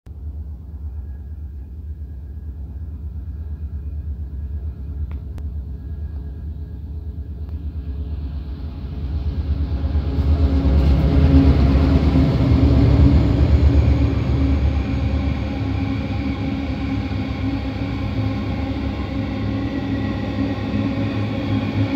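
Aurizon diesel locomotives 2191F and 2391 approach with a low engine rumble that grows steadily. The rumble is loudest as they pass about ten seconds in. Then the empty cattle wagons roll by with a steady wheel-on-rail noise.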